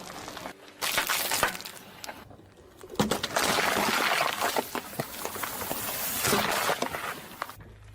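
Objects being crushed under a car tyre: crunching and shattering with sharp cracks like breaking glass, in two bouts, the second and longer one starting about three seconds in and cut off abruptly near the end.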